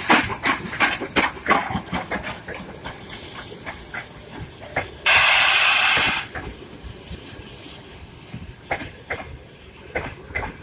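Train running past, with a quick run of rail clicks and knocks that thins out. About five seconds in comes a loud hiss lasting about a second.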